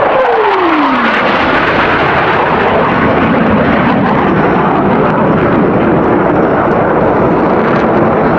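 Jet aircraft roaring past at low altitude. Its pitch drops sharply in the first second as it goes by, then the engine roar goes on loud and steady.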